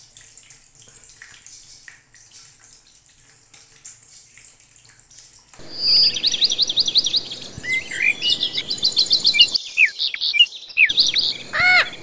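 Water trickling faintly into a plastic basin, then, about halfway through, loud high-pitched bird chirps and trills in quick repeated runs, ending with one arching call near the end.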